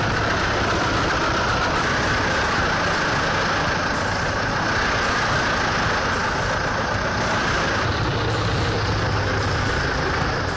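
Heavy machine engine running steadily, with no break or change in level.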